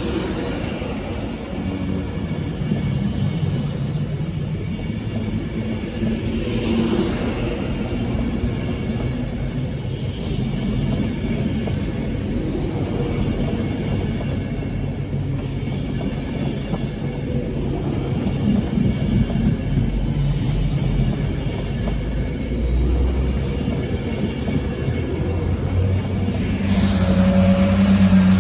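An Avanti West Coast Class 390 Pendolino electric train rolls along the platform with a steady low rumble of wheels and running gear. Near the end it gives way to a Transport for Wales diesel multiple unit, its engine droning at a steady pitch.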